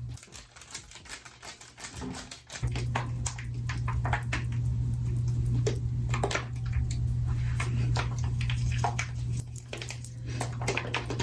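Plastic hair-dye applicator bottle being shaken to mix colourant and developer: a rapid, irregular clicking and rattling, with a steady low hum from about two and a half seconds in.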